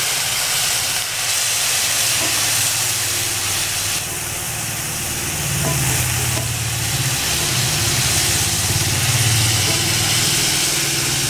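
Onions and ginger-garlic paste sizzling in oil on a hot iron tawa, hissing as splashes of water turn to steam, while a spatula stirs them. A low steady hum runs underneath.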